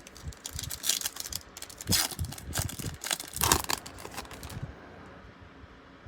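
Wrapper of a 2017 Topps Chrome baseball card pack being torn open and crinkled, in several rustling tears. It goes quiet about four and a half seconds in, leaving only faint handling.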